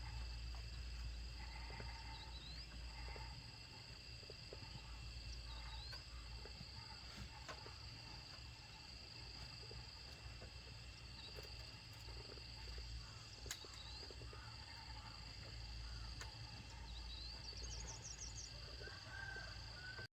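Faint forest ambience: insects droning steadily at a high pitch, with a few short bird chirps and a quick trill near the end, over a low rumble. A single sharp click comes about halfway through.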